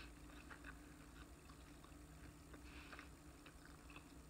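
Faint chewing: soft, irregular mouth clicks of a person eating with closed lips, over a low steady hum.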